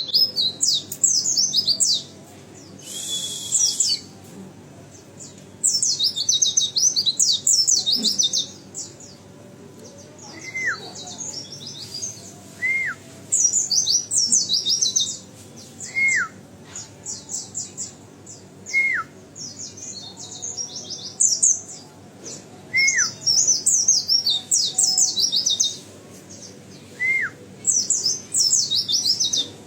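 A white-eye (pleci) singing vigorously: repeated bursts of fast, high twittering song lasting several seconds each, separated by short pauses. In the second half, single short falling whistles come every two to three seconds between the bursts.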